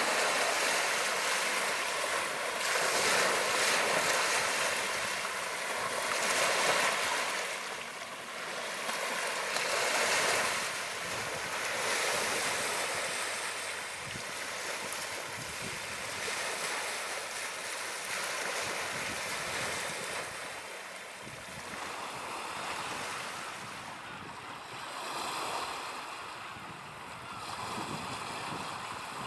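Sea waves breaking and washing up a beach, swelling and easing every few seconds. The surges are louder in the first half and softer later.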